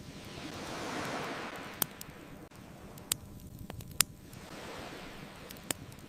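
Ocean waves washing ashore twice, the first swell louder, with a crackling fire giving a few sharp pops over them, the loudest about four seconds in.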